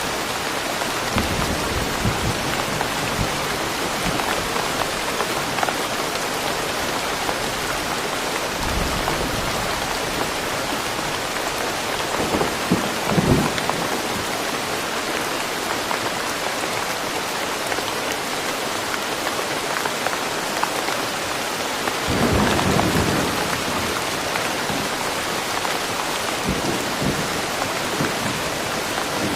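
Steady rain falling in woodland, an even hiss of drops, with two low rumbles of thunder rising above it, about 13 seconds and 22 seconds in.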